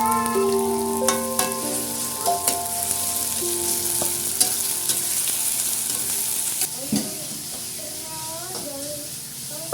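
Food sizzling in a frying pan with a steady hiss while it is stirred, a utensil clicking against the pan now and then.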